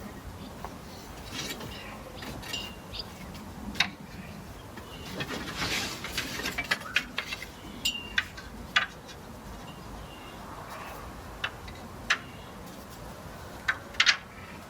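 Scattered light clicks and taps, a few with a short high squeak, and a brief swishing near the middle, from the handling of a brush and oil while oiling larch planks.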